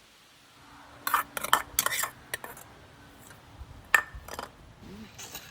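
Metal utensils and dishes clattering: a quick run of clinks and knocks, then a single sharp clink with a short ring about four seconds in.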